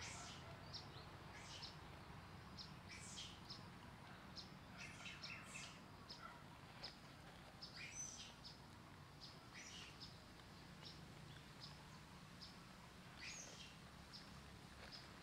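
Faint, quick high-pitched bird chirps, scattered irregularly and sometimes several in a second, over a low steady hum.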